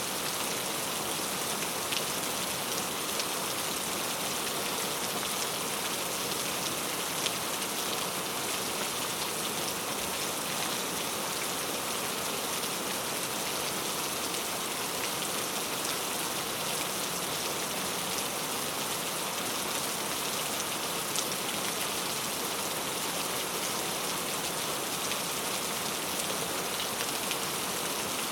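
Steady rainfall, an even hiss of rain with scattered sharper drop ticks now and then.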